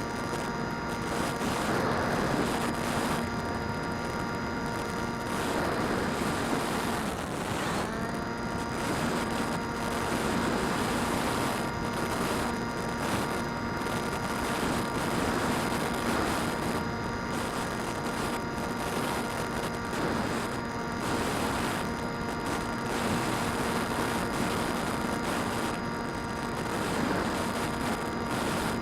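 DJI Phantom quadcopter's motors and propellers whining steadily over rushing air. About seven seconds in, the pitch dips briefly and comes back up as the throttle changes.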